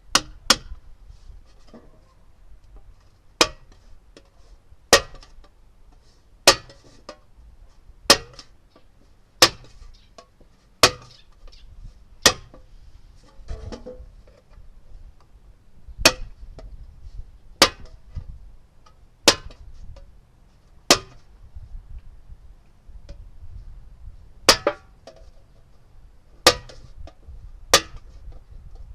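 Hammer blows on a thin metal cookie tin: sharp clinking strikes, about one every second and a half, with a couple of short pauses.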